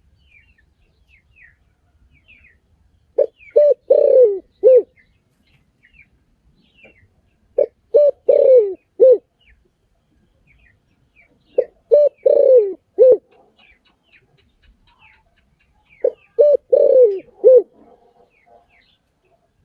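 Spotted dove cooing its call phrase four times, about every four seconds: two short coos, a longer drawn-out coo, then a short closing coo. Faint chirps from small birds sound in the background.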